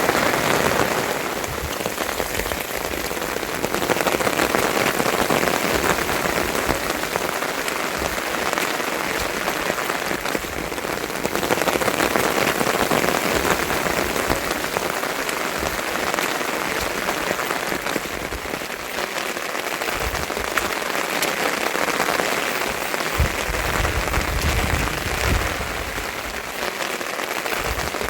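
Steady rain falling on surfaces, a dense hiss that swells and eases every few seconds, with a few faint low thuds near the end.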